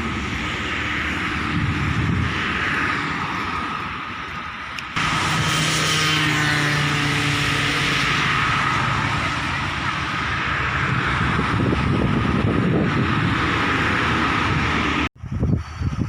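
A vehicle running steadily, with an abrupt change in sound about five seconds in and a brief sharp cut-out near the end.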